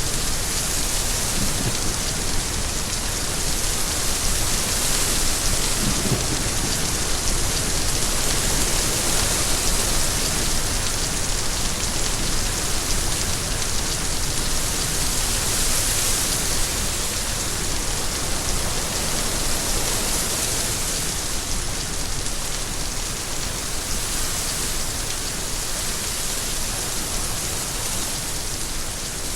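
Steady rain falling, an even hiss that swells and eases slowly.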